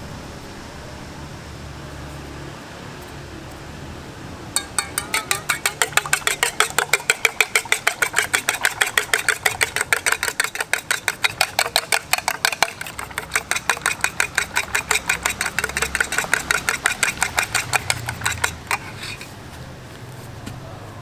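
Knife chopping fast on a cutting board, about five even strokes a second. It starts about four seconds in, pauses briefly midway and stops near the end, over a low steady hum.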